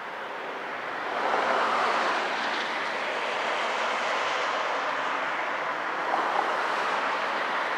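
Steady rushing noise of a passing vehicle, swelling about a second in and then holding.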